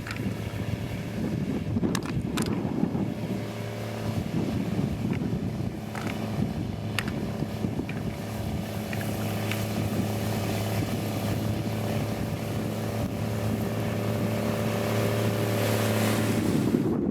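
Diesel engine of a heavy road-building machine running at a steady pitch, its hum settling in about three seconds in and growing a little louder near the end, with a few sharp clanks in the first several seconds.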